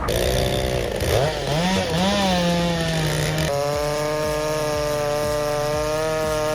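Two-stroke chainsaw engine revving up and down, then held at a steady high speed from about halfway through.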